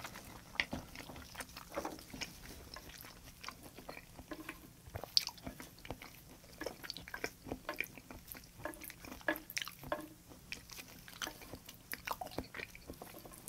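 Close-miked chewing of raw salmon sashimi: soft, wet mouth clicks and smacks coming irregularly, several a second at times, with no talking.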